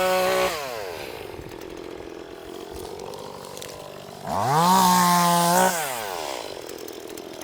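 Two-stroke gas chainsaw revved to full throttle twice: the first rev drops back about half a second in, and the second climbs again about four seconds in, holds for over a second, then falls back to idle.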